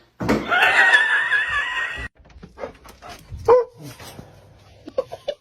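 A dog vocalizing: a high, wavering call for about two seconds that cuts off suddenly, then a few short barks or yips.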